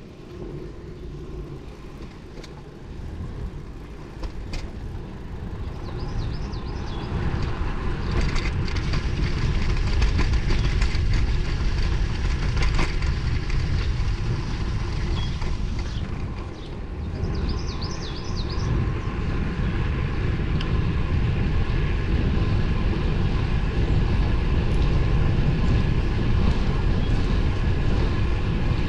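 Wind rushing over the microphone while riding a road bicycle, with tyre and road noise beneath it. It grows louder about eight seconds in and then holds steady.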